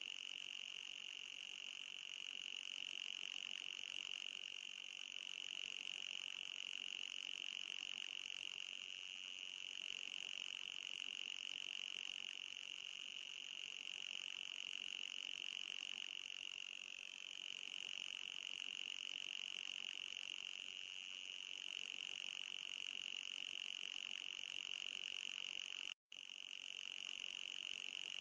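Anti-mosquito repeller sound effect: a steady high-pitched electronic tone with a fainter higher tone above it, wavering slightly in pitch, cutting out for a split second near the end before resuming.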